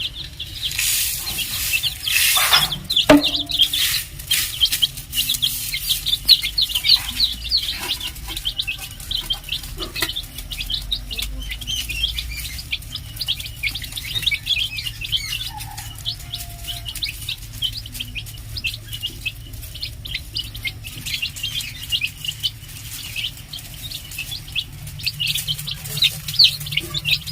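Small birds chirping: many short, high chirps follow one another quickly all the way through. In the first few seconds there is also some rustling noise.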